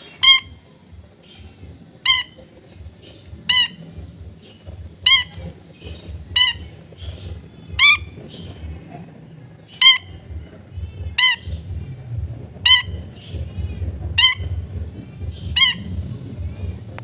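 Long-tailed shrike singing: a harsh, slightly rising call repeated about every second and a half, with softer high twittering between the calls. A low rumble runs underneath.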